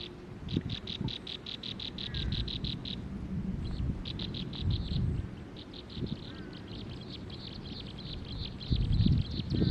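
A small bird calling in long runs of rapid, high chirps repeated several times a second, with a few brief lower falling chirps mixed in. Low thumps and rumble run beneath, loudest near the end.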